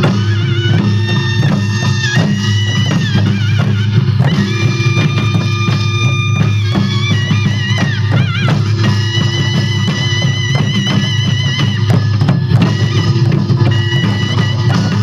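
Korean traditional music for the Jindo drum dance: rapid, steady drumming under a steady low drone, with a wind instrument playing a wavering, bending melody above.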